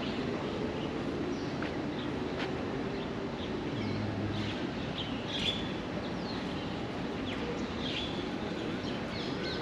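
Outdoor ambience of a steady, even background noise with scattered short bird chirps throughout.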